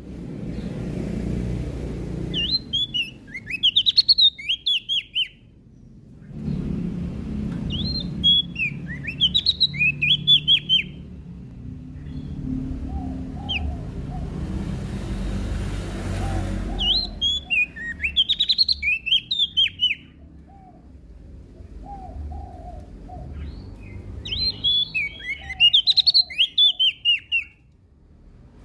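A small songbird, the 'prenjak daun', singing four bursts of fast, high, twittering phrases, each about three seconds long, with softer, lower chirps between them over a low background rumble.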